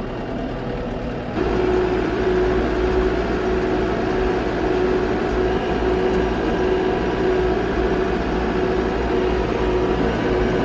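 New Holland tractor's diesel engine running steadily, stepping up in loudness about a second and a half in and then holding at the higher level.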